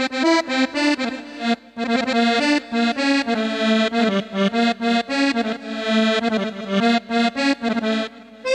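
Korg Triton MOSS keyboard playing a quick Arabic folk melody on a reed-instrument sound patch, with a short break under two seconds in and another near the end.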